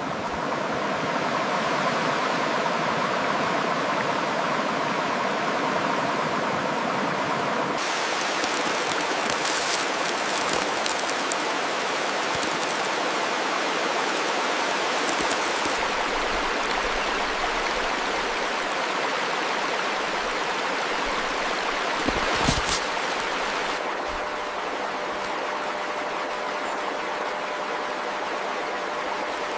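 Steady, even rushing noise, like a stream, that changes character abruptly about 8 seconds in and again near 24 seconds, with a brief low thump around 22 seconds.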